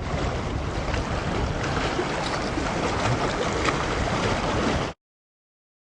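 Wind buffeting the microphone: a steady, heavy rushing rumble that cuts off abruptly about five seconds in.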